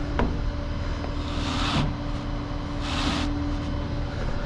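Tow truck's engine running steadily, with a single click just after the start and two short bursts of hiss about a second and a half apart.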